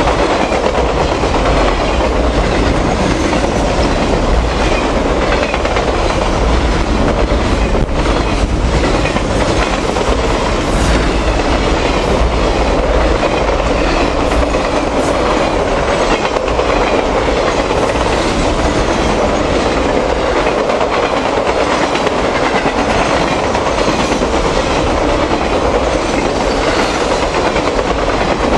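Norfolk Southern Triple Crown RoadRailer intermodal train rolling past, a loud steady clatter of wheels on the rails with rhythmic clickety-clack over the rail joints.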